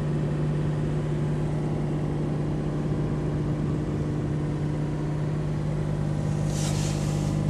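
Dodge Stealth's V6 engine running steadily, heard from inside the cabin, with a persistent tick that new lifters, a straightened oil pan and heavier oil have not cured; the owner is no longer sure it is lifter tick. A brief hiss comes in about six and a half seconds in.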